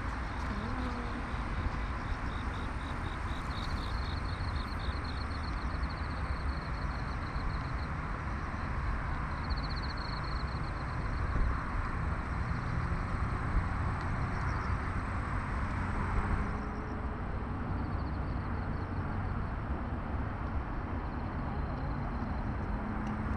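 Steady city traffic noise along the river at night, with high, rapidly pulsing insect trills coming and going over it.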